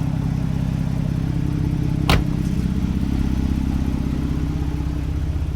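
Twin-turbo flat-six of a tuned 2017 Porsche 911 Carrera GTS with a cat-bypass downpipe, idling steadily. A single sharp click comes about two seconds in.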